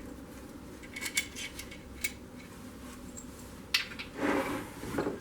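Light metallic clinks and knocks of the engine casing and tools being handled on a workbench, with a sharper knock past the middle and a short scraping shuffle near the end.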